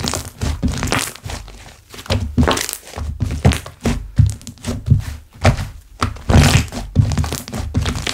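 Hands squishing, pressing and slapping slime, with irregular soft thuds and crackling pops of air bubbles.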